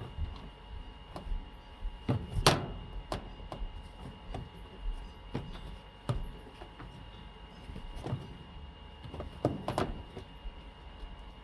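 Clothes being loaded into a top-loading washing machine: scattered knocks and rustles of handling, the loudest about two and a half seconds in and again near the end, over a steady low hum.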